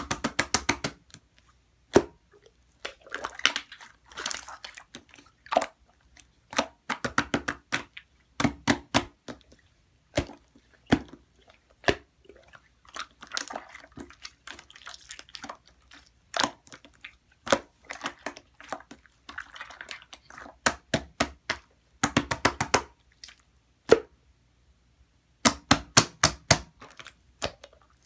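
Clear slime being squished and played with, giving quick runs of small sticky clicks and pops with short pauses between them.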